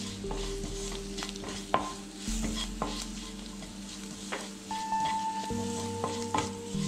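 Green chillies, garlic and curry leaves sizzling in hot oil in a non-stick wok while a slotted spatula stirs and scrapes them, with repeated sharp clicks of the spatula against the pan, the loudest nearly two seconds in. They are being sautéed until their raw green colour goes.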